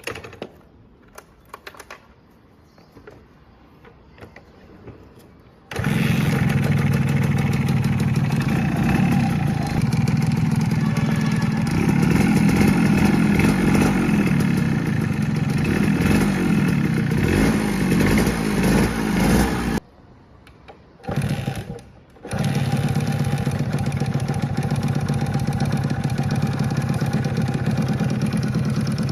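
Suzuki motorcycle engine being started: a few light clicks, then the engine catches suddenly about six seconds in and runs, revved unevenly. About twenty seconds in it cuts out, fires for a second, then starts again and runs steadily.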